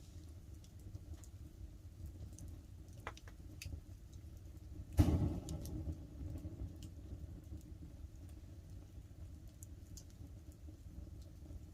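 Wood fire crackling with scattered sharp pops over a steady low rumble. One loud knock about five seconds in, with a brief ringing after it.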